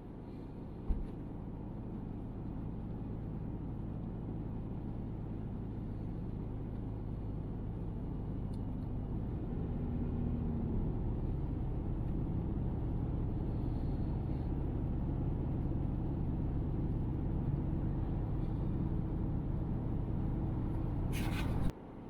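Car driving on the road: a steady low rumble of engine and road noise that grows gradually louder through the first half as the car picks up speed. A short click about a second in.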